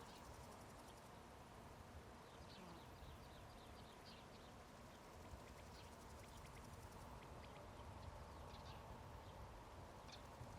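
Faint meadow ambience: scattered short, high chirps and ticks over a steady low hiss.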